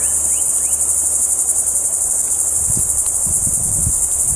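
Steady, high-pitched chorus of insects with a fast pulse. A few short rising chirps come in the first second, and some low thumps follow from about two and a half seconds in.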